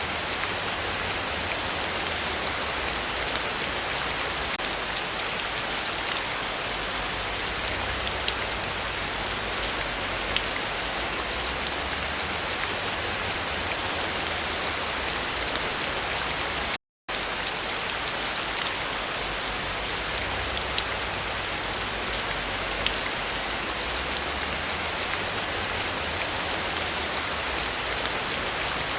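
Heavy rain falling steadily, a dense hiss with the ticks of single drops through it. About two-thirds of the way in, the sound cuts out completely for a split second, then the rain resumes.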